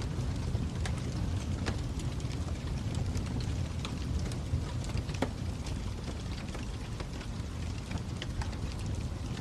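Wood fire crackling: irregular sharp pops and snaps scattered over a low steady rumble.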